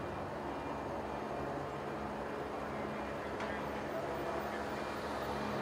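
Steady low hum of an idling vehicle engine under street ambience, with indistinct voices in the background.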